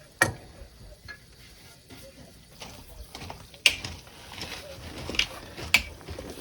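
Hand tools working metal plumbing fittings: a few sharp, unevenly spaced metallic clanks and clicks, with softer scraping and handling sounds between them.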